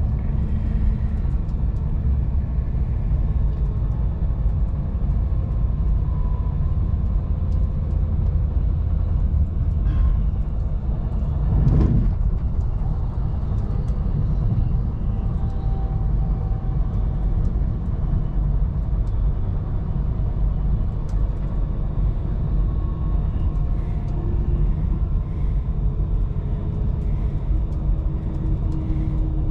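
Steady low rumble of an electric intercity train running at speed, heard from inside the passenger carriage. There is one brief louder thump about twelve seconds in.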